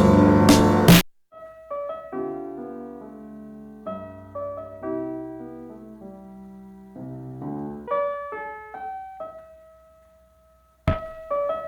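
Beat music played live on a Roland SP-404 sampler: the full beat cuts off abruptly about a second in, leaving a soft electric-piano passage of chords and melody notes that fades out, and the full beat comes back near the end.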